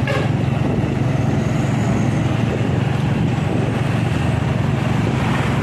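Truck engine running with a steady low drone and road noise, its loudness unchanging throughout.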